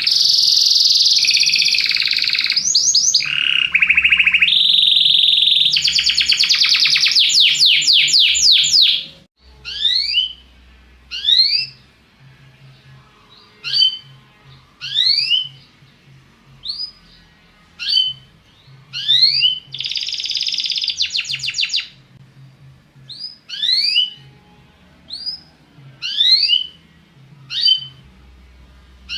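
Domestic Belgian canary singing: fast, continuous rolling trills for about nine seconds, then separate short rising whistled notes about once a second, with one more brief trill near the twenty-second mark.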